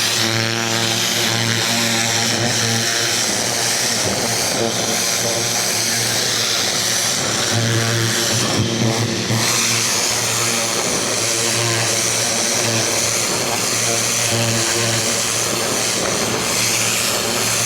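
Ryobi 2000 PSI electric pressure washer running, its pump motor humming steadily under the hiss of the high-pressure water spray.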